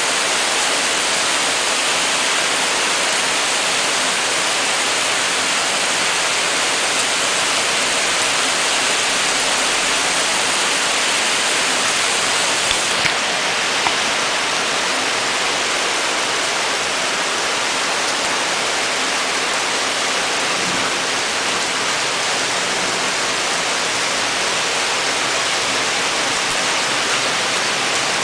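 Torrential rain pouring down in a dense, steady hiss, with a couple of brief ticks about halfway through.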